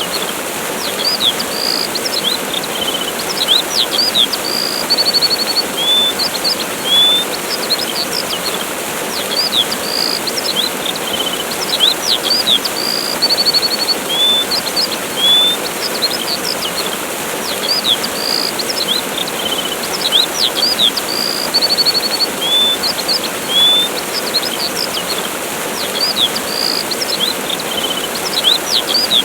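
Waterfall rushing steadily, with small birds chirping over it in short high chirps and a brief trill; the same run of calls comes round again about every eleven seconds.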